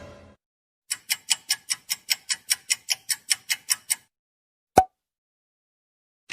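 Fast clock-like ticking, about five even ticks a second for some three seconds, followed about a second later by a single sharp click.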